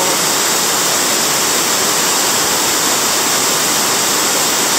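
Steady rushing water filling the whole sound, even and unbroken, as from a waterfall or fast river.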